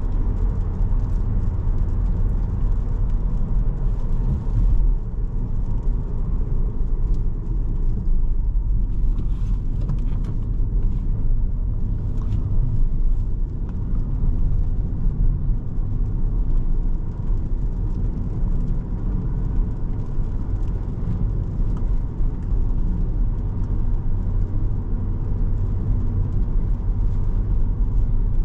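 A 2017 Volkswagen Jetta SE's turbocharged four-cylinder engine and its road noise, heard from inside the cabin while it is driven: a steady low rumble.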